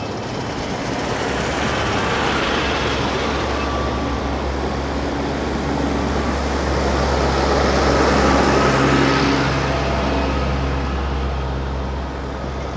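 Tractor engines running as tractors drive past on the road, with a steady low engine note under tyre and road noise. The sound swells as one passes about two seconds in and louder again about eight seconds in.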